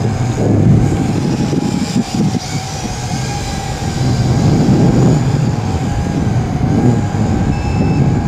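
YiZhan X6 Tarantula quadcopter's motors and propellers whining steadily, with gusty wind buffeting the microphone. Near the end short electronic beeps begin: the low-battery warning.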